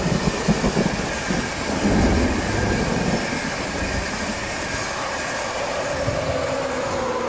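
InterCity 225 electric passenger train passing at speed. Its wheels clatter over rail joints in the first second or so, then settle into a steady rumble, and a faint whine falls in pitch near the end as the locomotive goes by.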